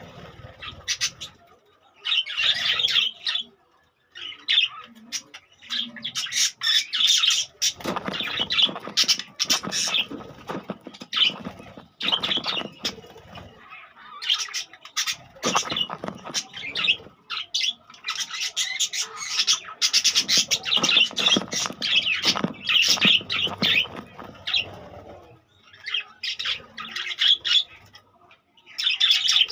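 A group of budgerigars chattering and squawking in bursts of rapid, high chirps, with short lulls between the bursts.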